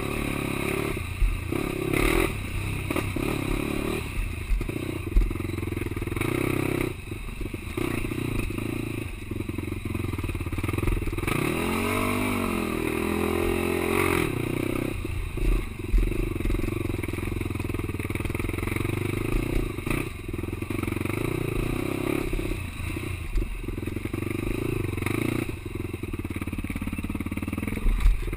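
Quad bike engine running under changing throttle, with frequent knocks and clatter from the machine bouncing over rough ground. About halfway through the engine revs up and back down.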